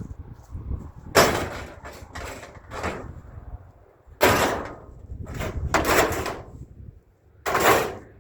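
Scrap metal being thrown onto a truck load: about seven loud, short clattering crashes, in bunches about a second in, around the middle, and once near the end.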